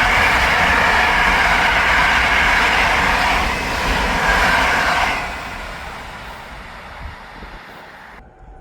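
A train passing close by, its wheels running on the rails with a loud, steady noise. About five seconds in, the noise drops and fades away as the train moves off.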